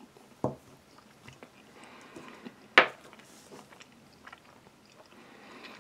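A person chewing a mouthful of canned Kaiserschmarrn, soft cake-like pancake chunks with raisins in apple sauce. There are two sharp clicks, a small one about half a second in and a louder one nearly three seconds in.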